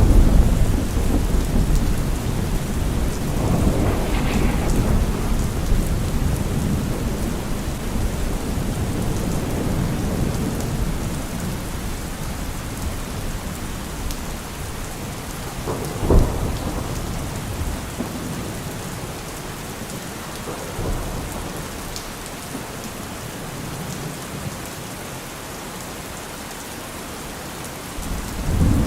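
Heavy rain falling steadily, with thunder: a loud low rumble at the start that slowly dies away, a sharp crack of thunder about halfway through, and a fresh rumble building near the end.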